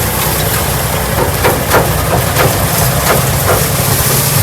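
1968 Ford Bronco's engine running steadily as it drives over rough farm ground, with a run of sharp knocks and rattles from about a second in lasting a couple of seconds.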